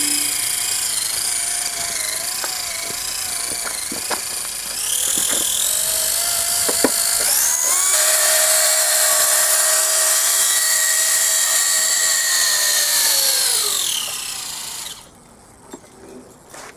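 Whine of a homemade steel RC army truck's drivetrain, driven by a Tamiya TZ electric motor through a 20T pinion, with a rattling noise at higher revs that the builder puts down to the PTO shaft or its bearings. The pitch steps up twice, holds, then winds down and stops near the end.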